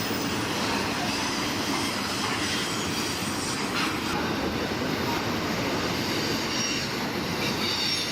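Train passing on a railway beside the lake: a steady rumble and clatter of wheels on the rails, with high wheel squeal coming in near the end.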